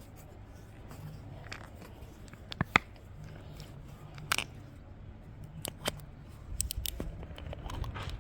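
Hands handling kitchen items while honey is prepared for the fried chicken: scattered light clicks and taps, with a couple of sharper ones about a third of the way in and halfway, and a quick run of clicks later on, over a faint low hum.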